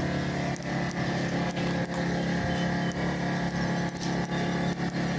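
An engine running steadily at an even pitch, a constant low hum with a few faint clicks over it.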